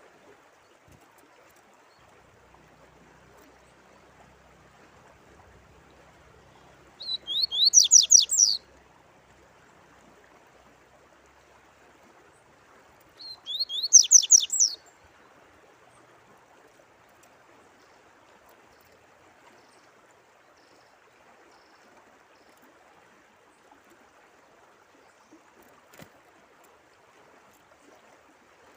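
Steady trickling water with a songbird singing two short, loud phrases of quick, high, downward-sweeping notes, each about a second and a half long, the second about five seconds after the first.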